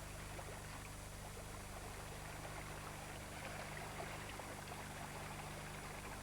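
Flash-flood water rushing down a dry riverbed, a steady rush of moving water, with a low steady hum beneath it.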